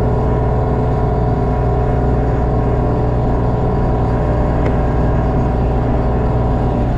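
LS MT232 tractor's three-cylinder diesel engine running steadily under load while it drives a brush hog (rotary mower) through thick, tall brush.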